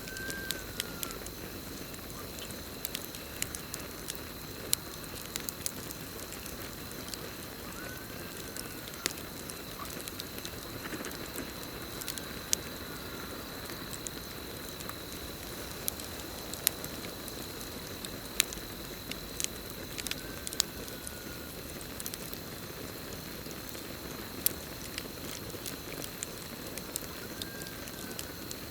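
Campfire burning with irregular sharp crackles and pops over a steady hiss of the flames, with a continuous high cricket trill. A short rising-then-falling call sounds about five times.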